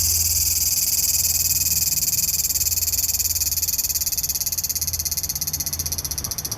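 Large brown cicada (aburazemi) singing: a loud, continuous high sizzling buzz that grows into a rapid, even pulsing and gradually softens toward the end.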